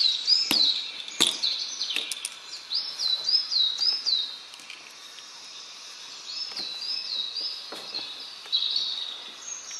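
A small bird chirping in runs of short repeated notes, about three at a time, with a few sharp clicks of plastic toy figures being handled.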